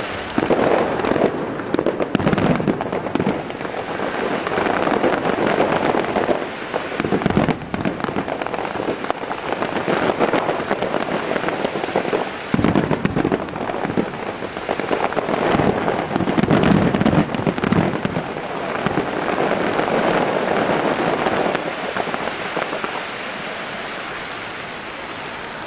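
Fireworks display: a continuous barrage of aerial shell bursts, many sharp bangs and crackles running together, with louder clusters every few seconds. It eases off near the end.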